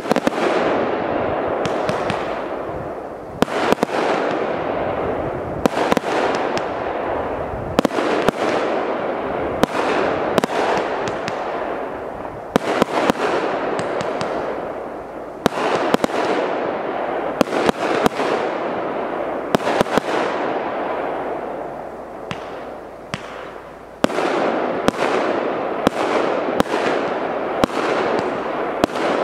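A multi-shot consumer firework battery (TKB997 "Деньги на ветер") firing shot after shot. There is a sharp bang about every second or two, each followed by a loud hiss that fades away. The firing dips briefly a few seconds before the end, then picks up again.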